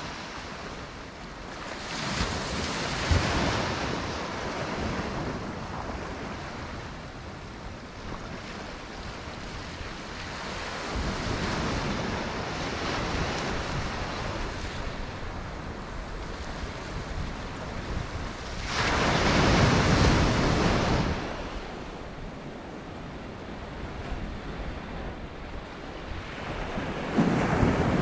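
Ocean surf: waves breaking and washing up the beach, the rush swelling and fading in several slow surges, the loudest about two-thirds of the way through, with wind buffeting the microphone.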